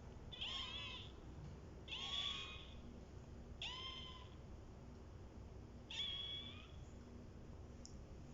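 Kitten mewing: four short, high-pitched mews spaced out over several seconds.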